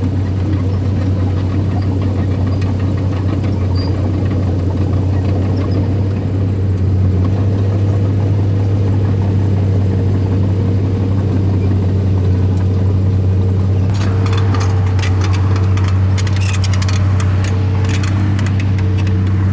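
Engine of earthmoving machinery running steadily at a constant pitch. About two-thirds of the way through, a clatter of rapid clicks and rattles joins it.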